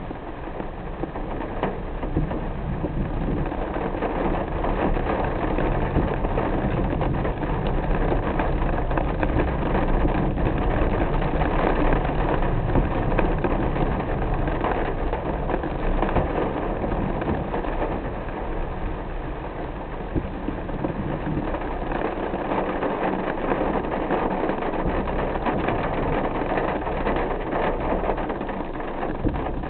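Steady rain falling on a car as it is driven, mixed with the car's engine and road noise. The level swells and eases gently, with no clear thunderclap.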